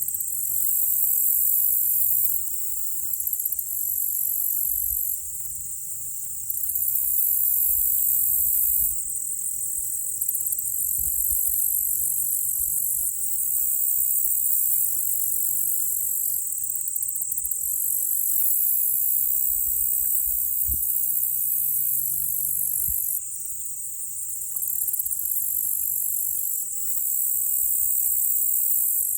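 A dense chorus of insects trilling high-pitched, with several layers that swell and drop out every few seconds over one steady shrill tone.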